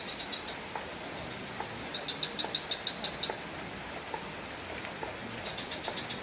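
Steady rain falling, with scattered drips. A high, rapid pulsed call from a small animal sounds for about a second, about two seconds in, and starts again near the end.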